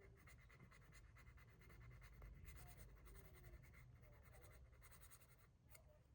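Faint, irregular scratching of a small round rat-tail file smoothing the inside of a plastic model part.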